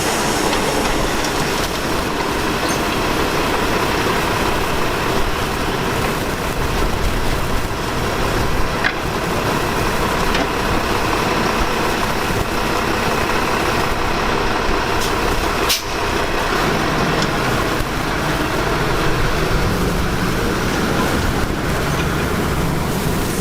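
Crane Carrier LET garbage truck with a Maxon side-loader body, its engine running steadily, with a sharp click about two-thirds of the way through.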